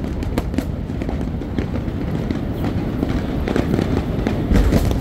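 Fireworks show: a rapid string of sharp cracks and pops over a continuous low rumble of booms, with the heaviest burst about four and a half seconds in.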